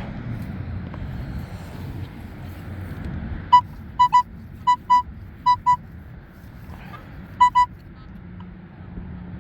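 Nokta Accupoint pinpointer giving short, high beeps, mostly in pairs, about eight in all between roughly a third and three-quarters of the way through, as it is probed for a coin in a dug hole. Wind rumbles on the microphone underneath.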